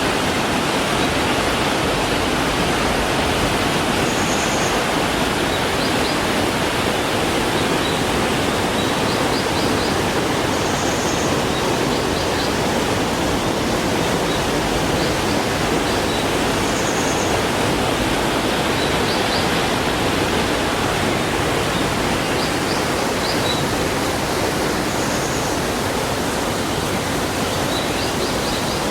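River water rushing steadily over rocks, a continuous even roar. A short high call recurs every six seconds or so above it, with small clusters of high ticks.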